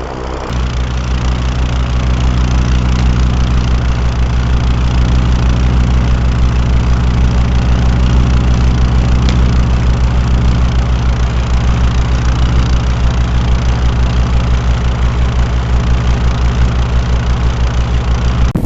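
Twin-engine airboat running under power. It steps up in level about half a second in, holds steady, and cuts off suddenly near the end.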